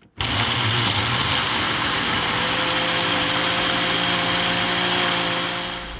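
Countertop blender running, blending a smoothie of kale and frozen fruit: a steady motor whir that switches on abruptly and eases off near the end.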